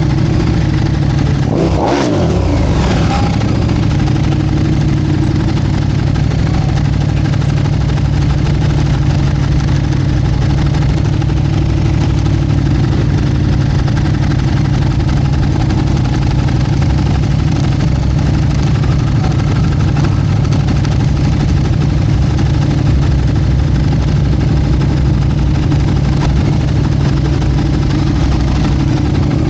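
Motorcycle engine running steadily, with a brief sweep in pitch about two seconds in.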